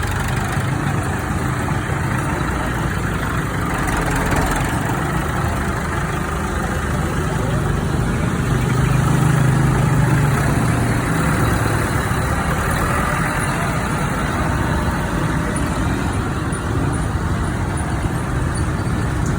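Tractor engine running steadily, a little louder about halfway through.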